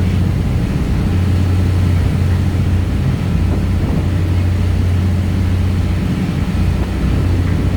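A large engine droning low and steady, as of the ferry's diesel engine on the crossing to or from Gapado.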